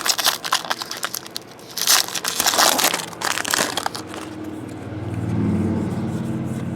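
Foil trading-card pack wrapper being torn open and crumpled: a run of crinkling crackles for the first four seconds. After that, a steady low engine hum from a vehicle swells in and holds.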